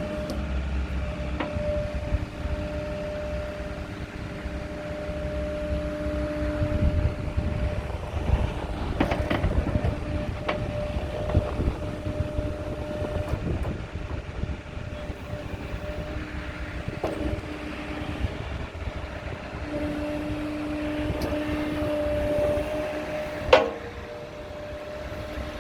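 JCB 86C-2 mini excavator running on its 2.5-litre Kohler diesel: a steady low engine rumble with hum tones that fade in and out, and a few sharp metallic knocks.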